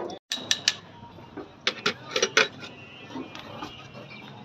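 A run of sharp metallic clinks and knocks, about eight of them in the first two and a half seconds, over a low steady hum.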